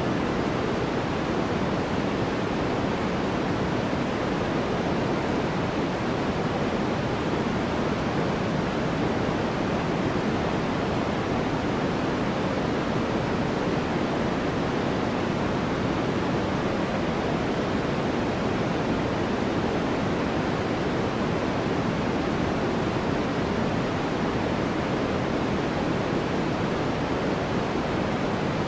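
Continuous steady noise, sold as white noise for sleep, an even hiss with no changes. Its weight sits in the low and middle range and thins toward the top, so it sounds softer and deeper than pure white noise.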